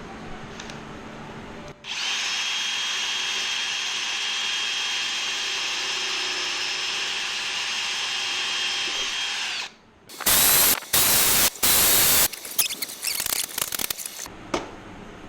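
Cordless drill running with a steady high whine for about eight seconds, then several short, louder bursts of drilling, as missed holes are drilled out through the aluminum ribs and skin of a kit-plane flaperon.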